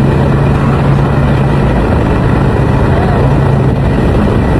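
A car driving at steady speed: engine and road noise with a steady low drone and no revving or gear changes.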